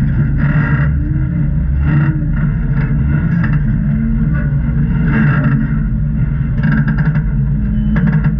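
Jeep engine running under load on a rock crawl, its pitch rising and falling in short revs every second or so.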